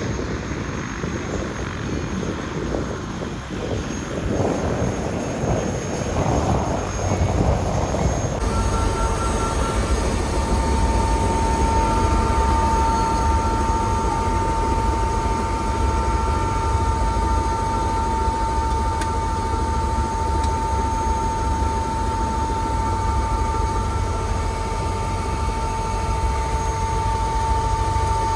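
Helicopter running, with a dense rotor and engine rumble; from about eight seconds in a steady high whine sits over a pulsing low throb.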